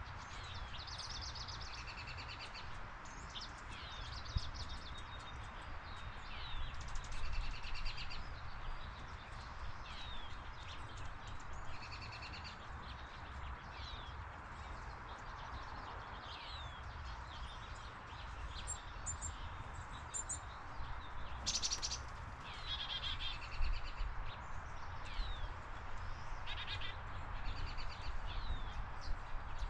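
Several birds chirping and calling, with short sweeping notes and quick trills repeating throughout, over a steady low rumble. A single short sharp noise sounds about two-thirds of the way through.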